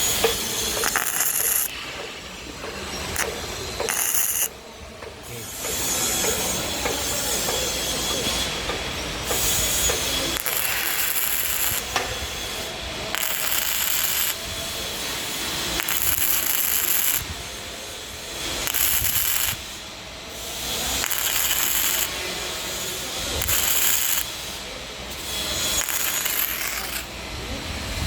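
Gasless flux-core MIG welding arc crackling as the wire feeds, in runs of several seconds that stop and restart a few times: spot tacks followed by a pulled weld bead.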